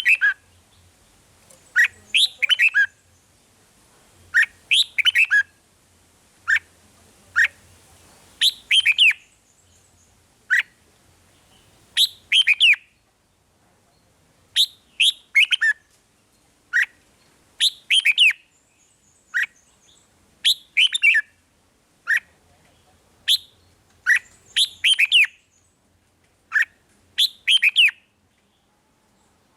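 Red-whiskered bulbul singing: short whistled phrases, one every one to two seconds, with brief pauses between.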